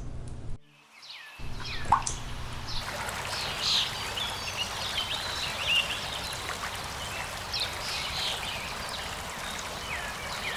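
Steady rain with trickling, dripping water, and birds chirping here and there over it. The sound cuts out briefly about a second in.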